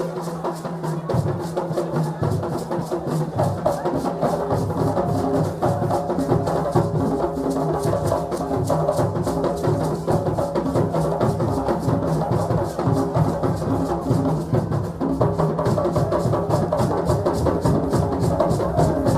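Several drums played together in a fast, steady dance rhythm at an African celebration, without a pause.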